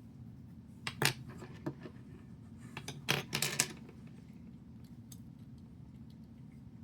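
Small plastic building bricks clicking and clattering as they are handled during assembly: a couple of sharp clicks about a second in, then a quick cluster of clicks around three seconds in.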